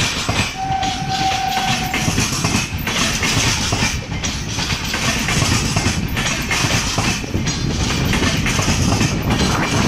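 Indian Railways LHB passenger coaches passing close by: a steady loud rumble of wheels on rail with a rhythmic clatter over the rail joints. A thin steady high tone sounds for about a second and a half just after the start.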